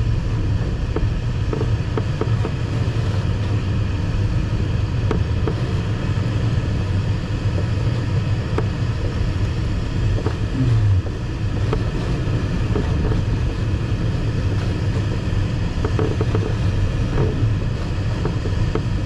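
Steady rush and low rumble of airflow around an ASW 15 glider's cockpit in unpowered flight, with a few faint ticks.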